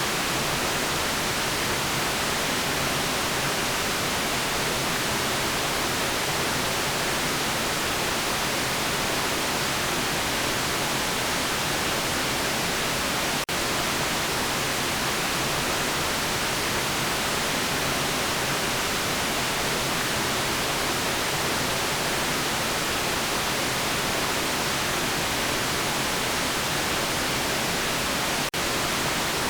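Steady white noise: an even, unbroken hiss across the whole range of pitch, at a constant level. It dips very briefly twice, about halfway through and near the end.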